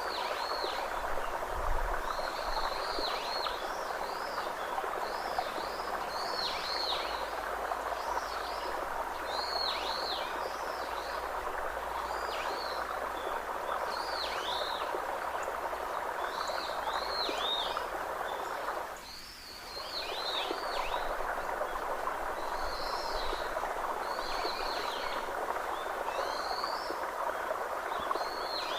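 Nature ambience: a dense, steady animal chorus with short high chirping calls repeated about once a second over it. The chorus cuts out for about a second roughly two-thirds of the way through, then resumes.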